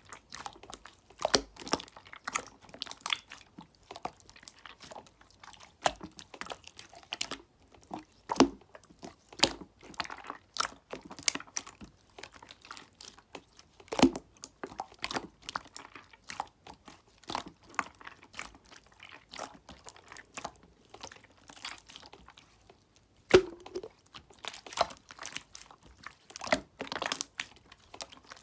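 Clear slime being squeezed and pressed by hand, giving a steady run of short, irregular clicks.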